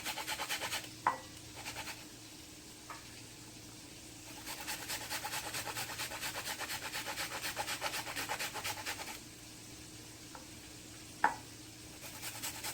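Onion being grated on a hand grater: two runs of quick rasping strokes, about four a second, the longer one in the middle. A few sharp knocks fall between the runs, the loudest near the end.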